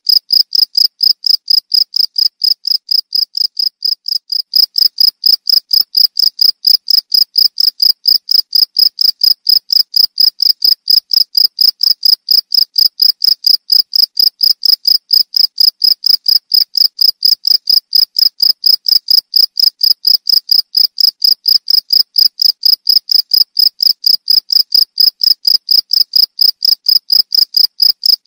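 Cricket chirping in a fast, even rhythm of high-pitched pulses.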